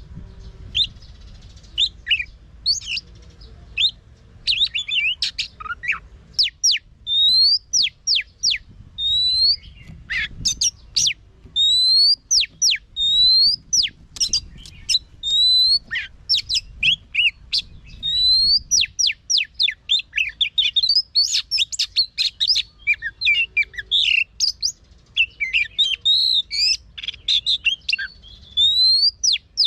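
Oriental magpie-robin singing: a long, nearly unbroken run of varied whistled notes and sharp up- and down-sweeping chirps in quick succession.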